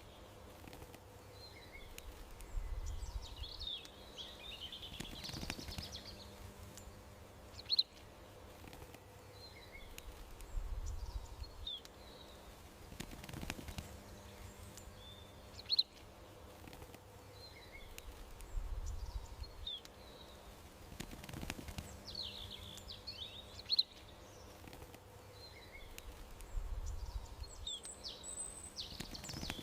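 Small birds chirping and calling at intervals over a faint steady hum, with brief flurries of chirps. The pattern recurs about every eight seconds.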